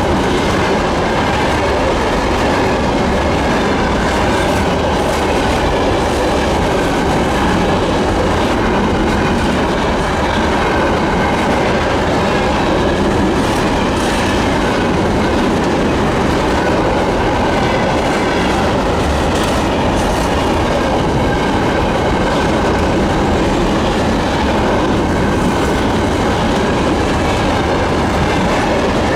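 Freight train rolling past at speed, loud and steady: rumble of wagon wheels on the rails, with occasional clicks over rail joints and a faint squeal from the wheels.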